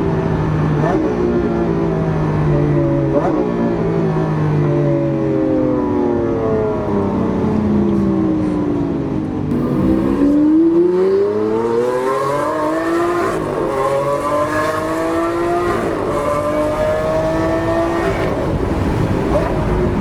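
Lamborghini Aventador's V12 through an aftermarket Capristo exhaust. Its pitch falls as the car slows through the first half. From about halfway it accelerates hard, the note climbing and dropping back at each of a few quick upshifts.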